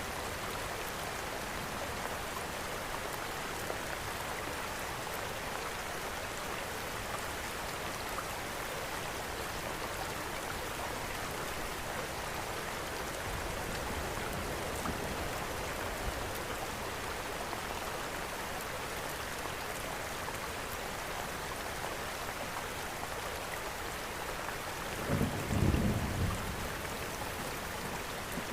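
Steady rain falling outside a window, mixed with a fireplace's faint crackling. A brief low rumble comes near the end.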